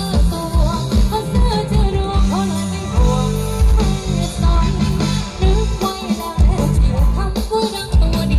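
Live Thai band music from a rot hae sound truck: a singer's melody over a heavy, steady bass beat, played loud through the truck's loudspeakers.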